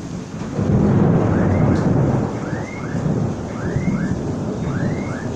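Thunder rumbling in a rainstorm: the rumble swells about half a second in and slowly eases off, over a steady hiss of rain. From the middle on, a short two-note call repeats about once a second.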